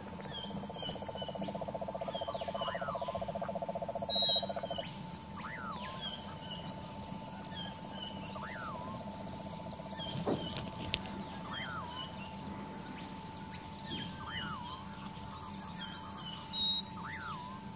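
Bird calls, short chirps and whistles repeating every couple of seconds, over a steady hum, with a rapid buzzing trill during the first few seconds.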